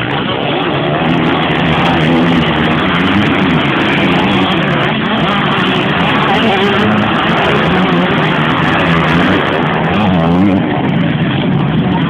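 A pack of 125cc and 250cc motocross bikes racing, many engines running at once with their pitches rising and falling as the riders open and close the throttle.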